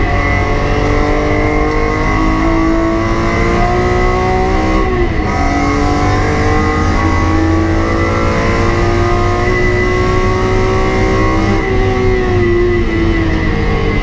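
BMW E46 M3's straight-six engine under hard acceleration on track, heard from inside the cabin: its pitch climbs steadily as it pulls through the revs, dipping briefly about five seconds in and again near the end.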